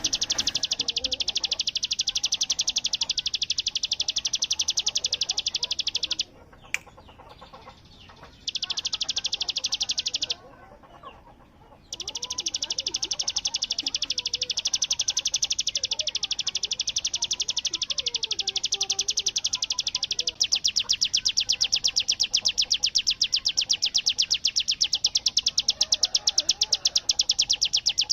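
Ciblek gunung, a prinia, singing its rapid machine-gun 'bren' trill: a fast, even stream of high-pitched notes, pausing twice briefly before running on unbroken.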